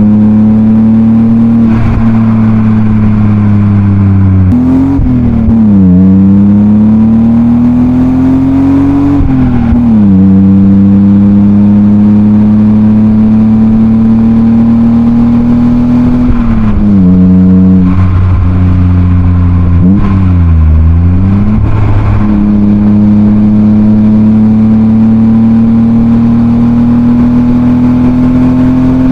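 BMW E36 328i's M52B28 2.8-litre straight-six, heard through a Schmiedmann rear silencer, pulling under load. The engine note climbs slowly in pitch, dips and recovers several times as the car shifts or lifts off, then pulls steadily through the last few seconds.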